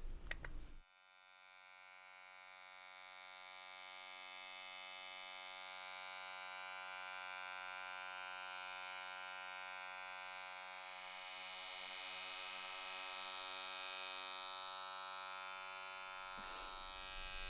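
A steady electronic hum: one unchanging pitched tone with many overtones. It starts about a second in, swells slowly over the next several seconds, and gives way to other noise near the end.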